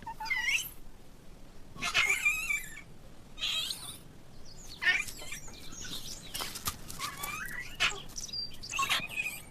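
Yunnan snub-nosed monkeys calling: a series of high, wavering calls every second or two.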